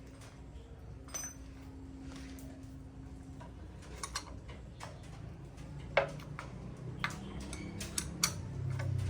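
Light metal clicks and taps, scattered and irregular, the loudest about six seconds in, over a low hum: hand tools and small engine parts being handled during the repair of a diesel tiller. A low rumble builds near the end.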